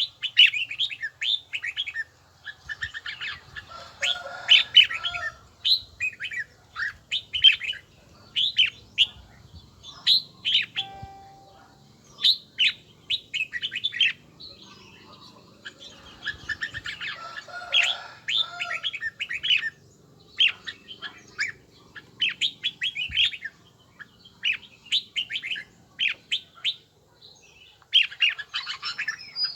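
Red-whiskered bulbul singing: phrases of quick, bright chirping notes, repeated with short pauses between them.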